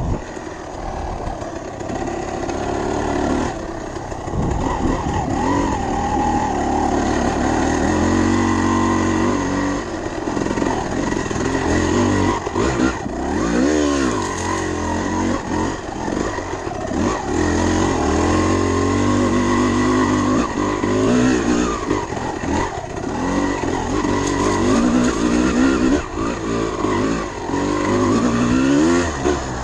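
Dirt bike engine being ridden hard, its pitch climbing as it revs and dropping back again and again as the throttle is worked and gears change.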